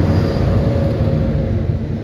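Diesel freight train with 82 class locomotives passing: a loud, steady low engine drone with a held hum, easing slightly toward the end.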